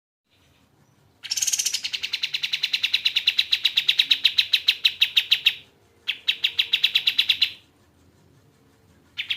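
Kapas tembak bird singing in rapid trills of sharp, evenly repeated high notes, about eight a second. A long run of over four seconds is followed by a shorter one, and a third begins near the end.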